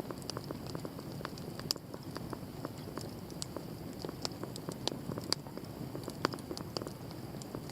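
Wood campfire burning and crackling: irregular sharp pops and snaps over a low steady rush of the flames.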